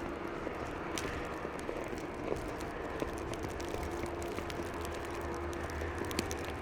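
City street ambience in a snowstorm: a steady rumble of traffic with a faint constant hum, and scattered light clicks and crunches.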